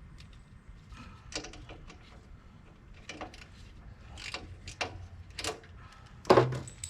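Hand tools and metal parts clicking and clinking in an irregular run as a wire is reconnected at the tractor's solenoid terminals, with one louder clunk near the end.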